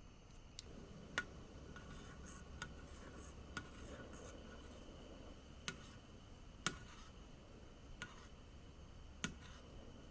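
Scattered sharp clicks and light taps, about eight in ten seconds and irregularly spaced, over a faint low steady hum.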